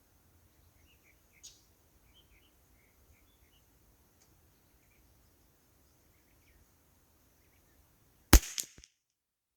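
A single AR-pattern rifle shot about eight seconds in, followed a quarter second later by a weaker sharp echo. Faint bird chirps before it.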